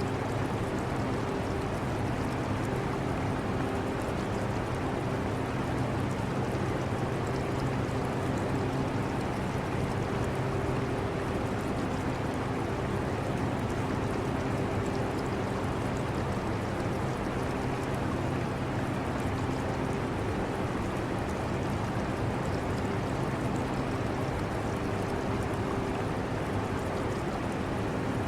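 Portable air conditioner running with a steady hum and rush of air, its low tones wavering in and out every few seconds, with the trickle of aquarium water underneath.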